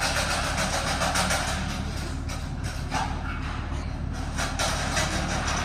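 Vehicle engine idling: a steady low hum under an even hiss.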